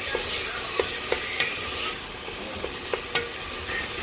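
Onion and mushrooms sizzling in oil in a pot, stirred with a utensil that clicks against the pot several times.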